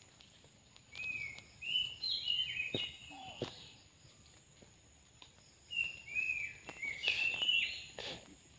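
A bird singing: two phrases of short, quick, slurred whistled notes, with a pause between them. A faint steady high whine runs underneath.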